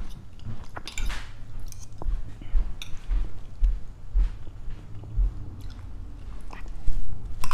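A person chewing a mouthful of rice and sardines close to a clip-on microphone, with soft chewing thuds about two a second and small wet mouth clicks. Near the end, a sharp click of a spoon or fork against the plate is the loudest sound.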